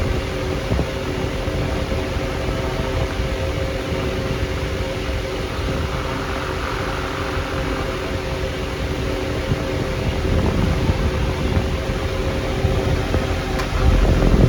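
Homestar 10-inch high-velocity stand fan running steadily: a rush of air with a steady motor hum, growing somewhat louder in the last few seconds.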